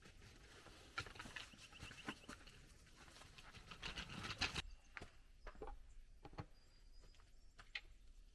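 A folding camp chair being put up: fabric rustling and the frame clicking and knocking. A busy stretch of handling stops abruptly about four and a half seconds in, and a few scattered light knocks follow.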